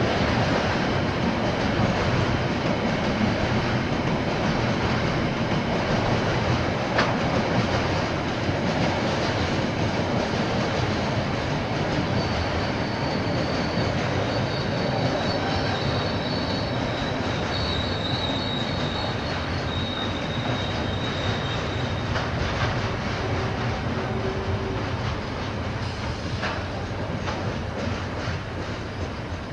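KiwiRail train rolling past, its wheels running steadily on the rails, with a faint high wheel squeal through the middle of the passage. The noise eases off slightly near the end.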